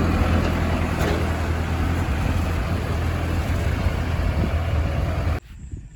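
Heavy diesel engine running steadily at work. It cuts off abruptly about five seconds in.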